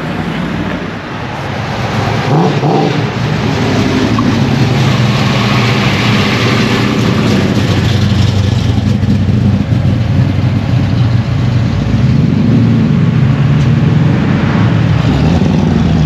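A car engine running at low revs, getting louder about two seconds in, its pitch rising and falling a few times near the end as it is revved.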